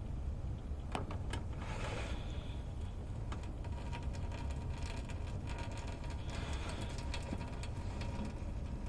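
Custom Conti lever espresso machine pulling a shot: a steady low rumble with scattered small clicks and a brief hiss about two seconds in.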